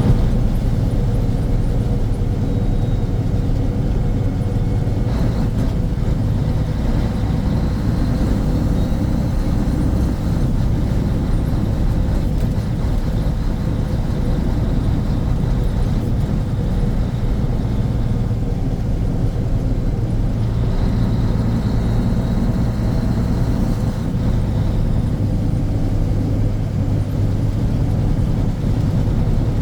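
Mack RS700L truck's 285 hp turbocharged diesel engine running steadily on the road, a constant low drone that holds its pitch.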